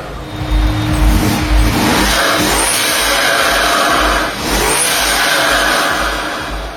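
BMW performance car engine revving loud, climbing in pitch twice.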